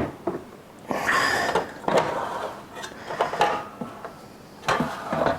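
Plastic clicks, knocks and scraping as the used-grounds container of a De'Longhi Eletta bean-to-cup coffee machine is pulled out and handled. A sharp click comes at the start, a scraping slide about a second in, then scattered knocks.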